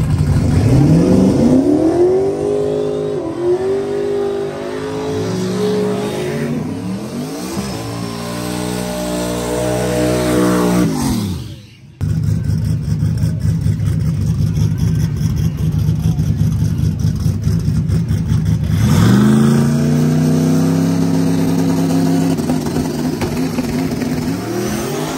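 A drag-racing vehicle's engine at full throttle, rising in pitch and stepping back down at each upshift, then fading away with falling pitch. After an abrupt cut about 12 seconds in, an engine runs again and rises to a steady high pitch near the end.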